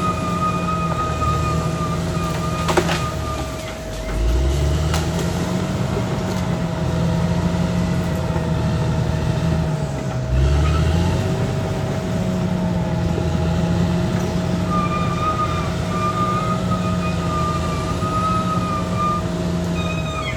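Caterpillar D6R XL bulldozer's diesel engine working under load. Its pitch sags and picks back up twice, about four seconds in and again about ten seconds in. A steady high whine runs under it, a thin squeal comes and goes at the start and near the end, and there is one sharp clank about three seconds in.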